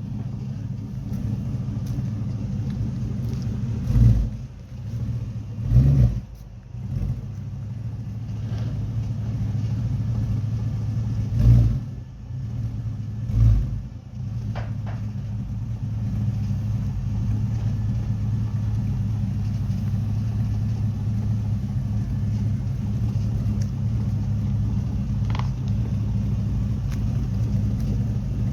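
Buick Regal's LS 5.3 V8 running through a newly fitted exhaust: idling with a steady low rumble, blipped up four times in quick short revs in the first half, then settling back to idle.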